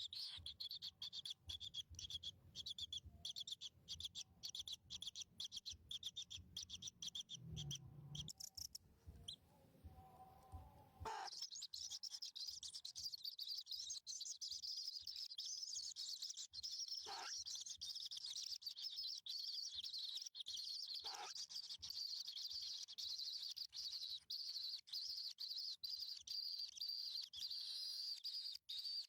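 Small birds chirping rapidly and continuously at a high pitch. About ten seconds in the sound changes to a higher, denser chirping that carries on to the end.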